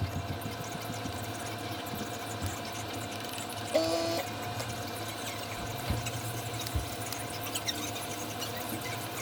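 Small airbrush air compressor running with a steady hum. A short squeak comes about four seconds in, and there are a few light clicks.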